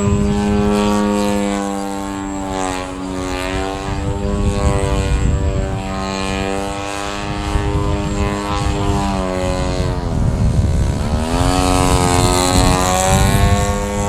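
Radio-controlled Ultimate biplane in flight, its motor and propeller giving a steady drone that drops in pitch about ten seconds in and climbs back up a second or so later.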